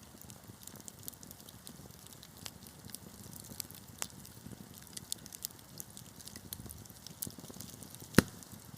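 Wood fire burning in a fireplace, crackling with scattered small snaps over a low steady rumble, and one loud pop near the end.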